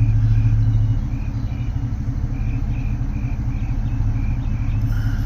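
A steady low rumble, heaviest in the first second, with a short high chirp repeating about twice a second over it.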